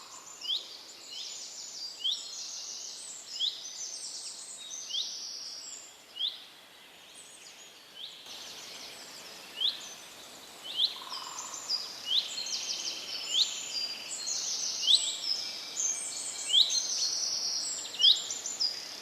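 Birds chirping and chattering: short, sharply rising chirps repeat about once or twice a second, overlapped by buzzy, rapid chattering notes higher in pitch.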